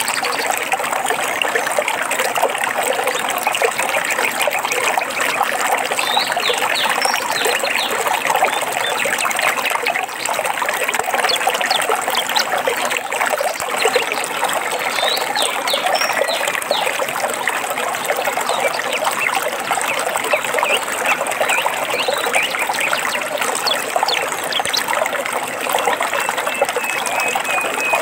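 Stream water trickling and babbling steadily, with a few short bird chirps above it and a brief trill near the end.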